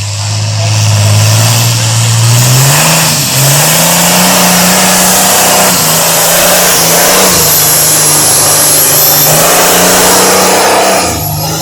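Competition mud bog vehicle's engine revving hard, its pitch climbing over the first few seconds and then held at high rpm, with brief dips about three and seven seconds in and a short drop near the end.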